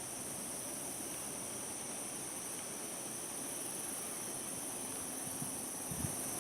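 A chorus of insects, like crickets, keeping up a steady high-pitched trill, with a soft knock near the end.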